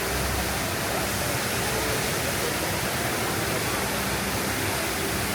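Steady rush of the HSBC Rain Vortex, a large indoor waterfall pouring down into its pool.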